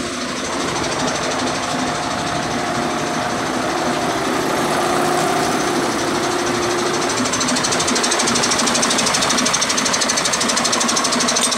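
Mercedes-Benz Actros diesel engine running with its freshly refitted air compressor, growing gradually louder, with a fast, even pulsing that comes up strongly in the last few seconds.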